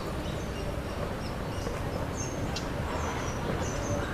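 Birds chirping with several short, high calls, most of them in the second half, over a steady low background rumble.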